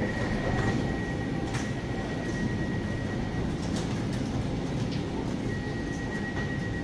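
Elizabeth line train running: a steady rumble with a thin high-pitched whine that fades out for a few seconds mid-way and returns, plus a few faint clicks.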